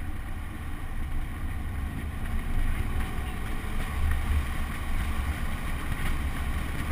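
Car engine running at low speed, a low steady rumble, with wind buffeting the outside-mounted microphone.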